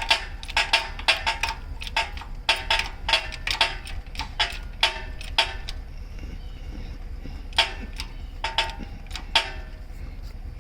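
Sharp metallic clicks with a short ring, in quick irregular runs and a pause near the middle: a ratcheting metal mechanism being worked.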